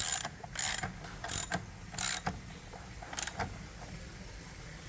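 Mallet taps on an engine part that is stuck, knocking it loose: four sharp knocks about 0.7 s apart, then a couple of lighter ones about three seconds in.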